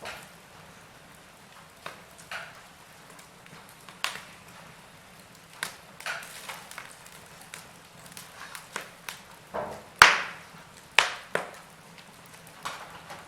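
Wood fire crackling in a fireplace: irregular sharp pops and snaps over a faint hiss, with the loudest snap about ten seconds in and another a second later.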